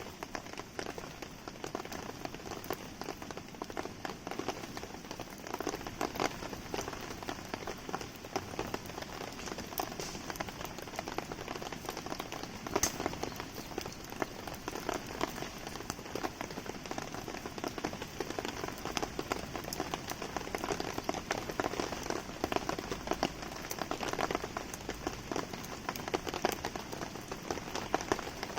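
Steady rain falling on the campsite, with a wood fire crackling under it: a dense run of small sharp ticks and pops, one louder pop about halfway through.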